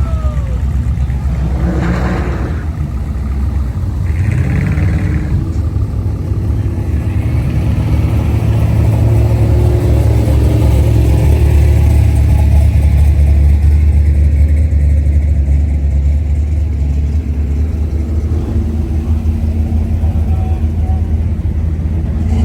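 Car engine running with a deep, steady rumble that swells in loudness about halfway through and eases off again.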